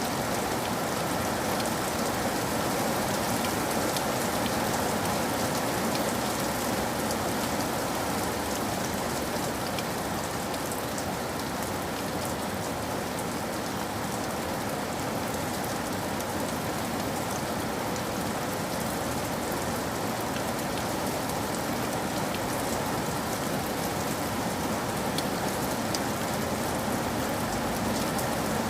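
Steady rain with many small drop taps on a surface, even throughout.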